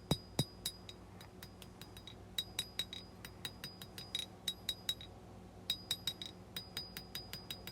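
Hand hammer striking a knife blade on the anvil, hammering in the bevel: runs of light blows about four a second, each with a short high ring. The blows pause briefly twice.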